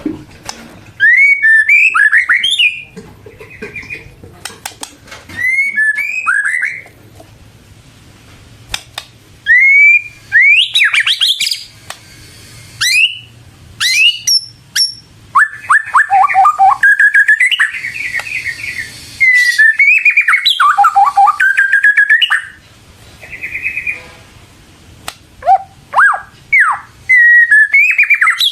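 White-rumped shama singing in full, energetic song: loud bursts of varied whistled phrases with quick up-and-down sweeps and rapid trills, broken by short pauses.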